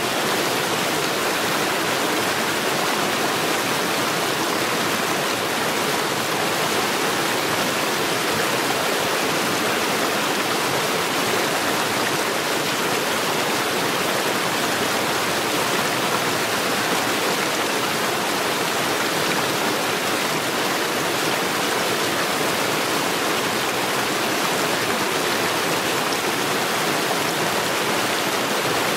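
Mountain stream rushing over rocks in a steady, unbroken rush of water.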